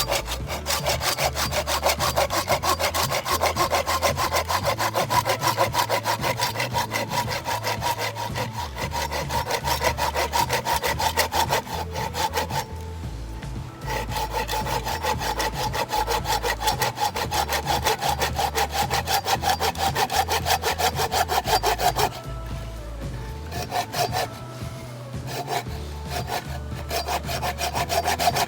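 A saw cutting through a firewood log in fast, steady back-and-forth strokes, pausing briefly twice.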